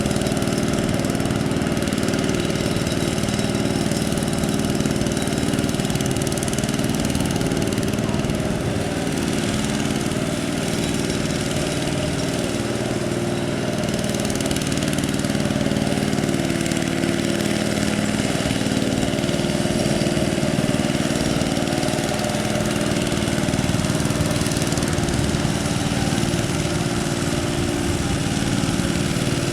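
Single-cylinder diesel engine of a two-wheel hand tractor running steadily.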